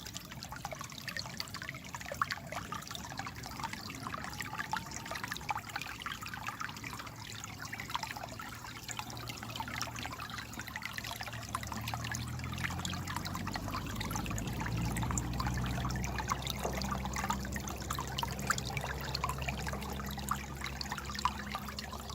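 Water trickling and babbling steadily over stones in a small stream. A low rumble joins in about halfway through.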